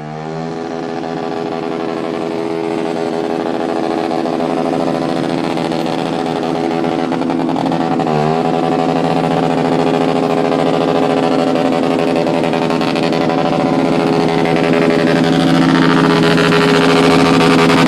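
Motorcycle engine pulling at a steady, fairly high pitch while riding, with a brief dip and recovery in pitch about eight seconds in.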